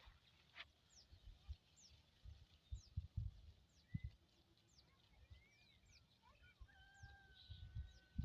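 Faint birdsong outdoors: many short, high chirps scattered throughout, with a thin sustained whistle at times, over low, muffled thumps that come and go.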